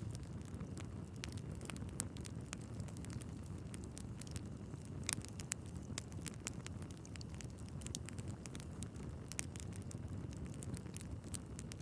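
Wood fire burning in a fireplace: a steady low rumble of flames with frequent irregular crackles and pops from the logs, a few sharper pops standing out.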